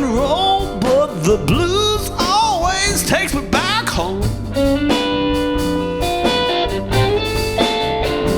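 Blues-rock band playing live. A guitar line bends and slides between notes over the rhythm section, then settles into held notes about halfway through.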